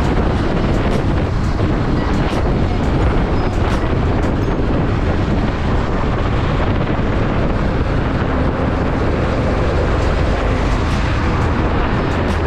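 Motorcycle riding: steady wind rush and road noise on the rider's microphone, with the bike running underneath.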